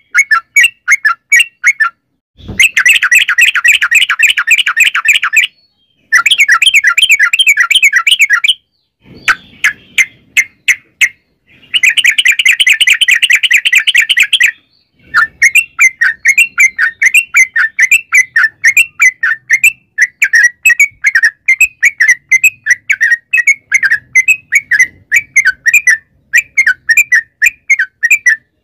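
Trucukan (yellow-vented bulbul) singing: several long, fast rolls of rapid, repeated chattering notes, broken by short pauses and sparser note strings.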